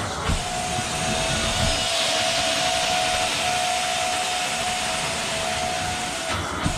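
Carpet-cleaning extraction machine running steadily, its vacuum drawing through the cleaning wand as it passes over the carpet: a constant hiss with a steady whine.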